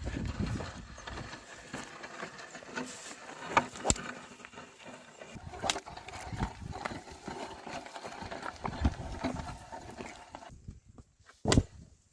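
Oxen working a field with a plough: scattered knocks and thuds of hooves and gear, with a brief hush and then one sharp knock near the end.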